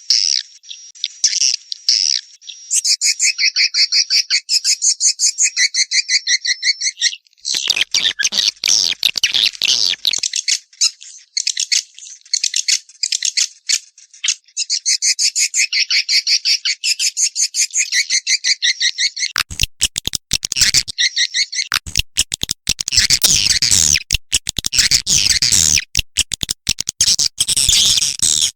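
Swiftlet calling sound: edible-nest swiftlet chirps and twitters in rapid, evenly repeating trains, a lure call of the kind played to draw swiftlets into a nesting house. A dense clicking rattle joins in for a few seconds near the start and again through the last third.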